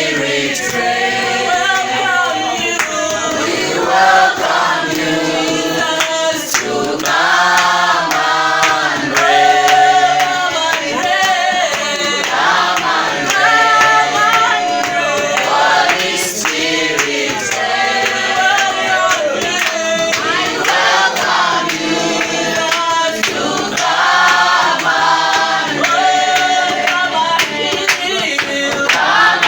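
Church choir singing a worship song together.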